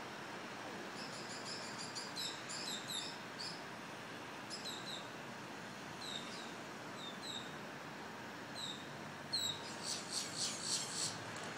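Small birds chirping: short, high, down-slurred chirps, often in pairs, that turn into a quick run of chirps near the end, over a steady background hiss.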